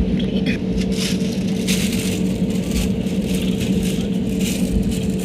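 Airliner cabin noise: a steady engine hum and rumble, with cabin fittings rattling and clattering in quick irregular bursts throughout.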